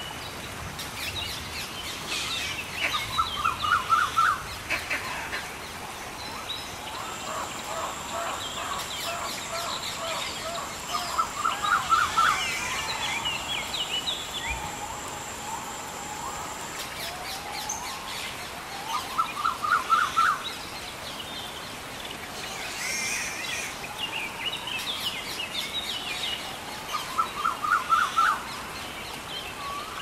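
Birds singing over a steady rush of water. One bird repeats a short, rapid, rising phrase about every eight seconds, the loudest sound here, with other chirps scattered around it, and a thin steady high tone runs for several seconds in the middle.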